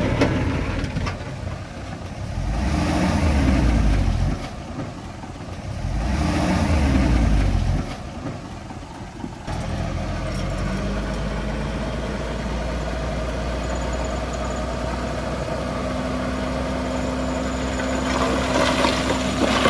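Heavy diesel engine of earth-moving equipment revving up under load three times in the first eight seconds, then settling into a steady low running hum. A few sharp knocks come near the end.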